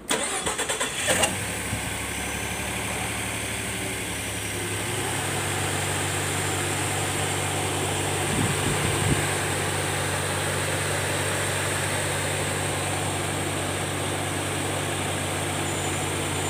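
Ford Expedition engine cranking briefly on the starter and catching about a second in, then idling steadily, with a slight change in the idle note around four to five seconds in as it settles. This is the first start after a water pump replacement.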